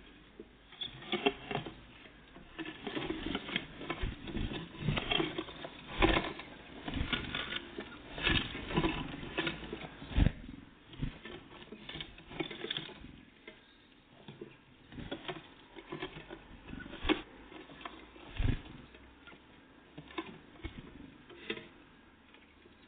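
Small birds, great tits and blue tits, busy at a feeder: a stream of irregular pecking taps, scrabbling and knocks, with a few louder knocks among them.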